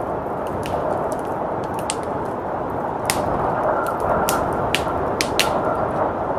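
Blizzard wind blowing as a steady rush, mixed with a wood fire crackling: sharp, irregular pops about once a second.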